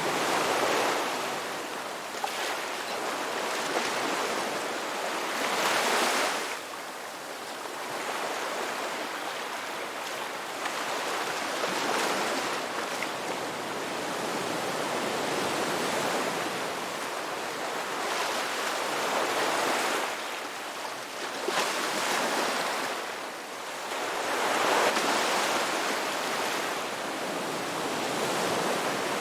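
Ocean waves washing onto a beach, a continuous surf hiss that swells and ebbs as each wave breaks every few seconds.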